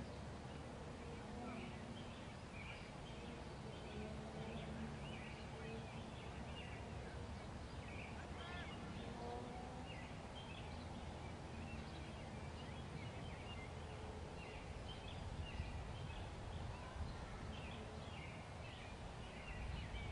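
Small birds chirping in many short calls over a faint low outdoor background hum.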